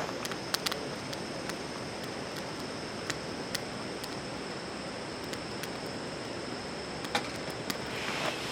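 Small wood campfire crackling, with a few sharp pops scattered over a steady hiss, and a steady high-pitched tone underneath.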